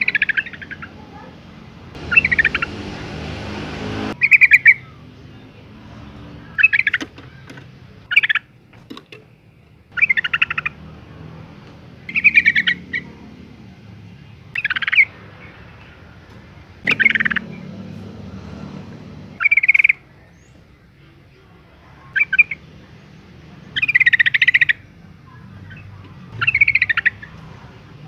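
Female yellow-vented bulbul calling: short chattering calls, one about every two seconds.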